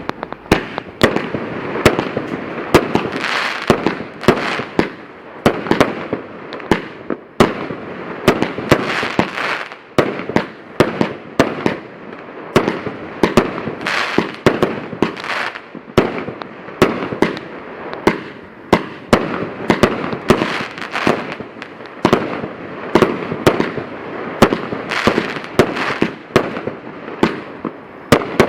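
Fireworks going off in a continuous string of sharp bangs, about two a second, with a noisy hiss filling the gaps between them.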